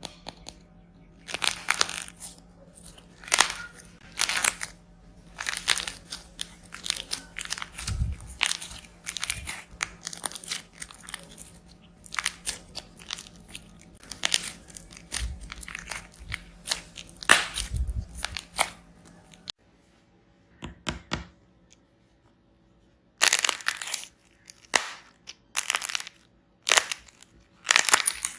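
Dried plaster clay being cracked and crushed by hand: crisp crunches and crackles in irregular runs, with a short pause about two-thirds of the way through, then a dense burst of crunching.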